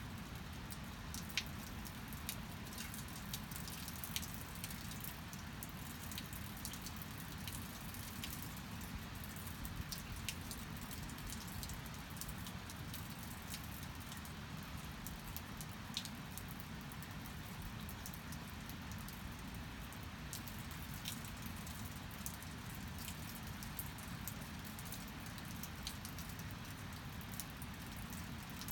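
Steady rain, with many separate drops ticking sharply and irregularly over an even hiss.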